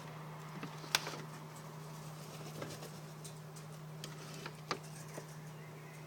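Small birds making scattered light taps and scratches, the sharpest about a second in and another near five seconds, over a steady low hum.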